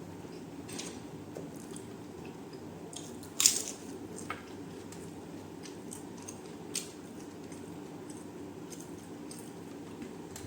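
Close-up eating sounds: wet chewing and smacking with scattered sharp bites. The loudest is a crisp crunch about three and a half seconds in, over a steady low hum.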